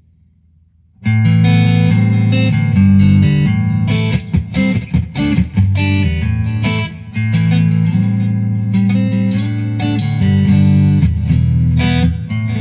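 Electric guitar on its neck pickup, a Mojotone Quiet Coil single-coil, played through a Bad Cat Cub amp's overdrive channel set to a light, low-gain crunch. Chords are strummed and held, starting about a second in, with a run of short choppy strums in the middle.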